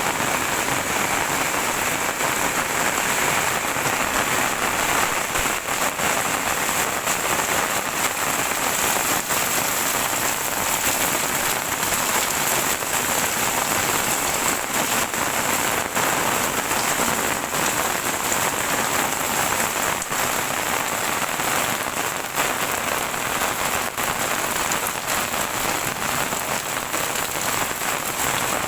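Heavy rain falling steadily, a dense even hiss with many small drop impacts.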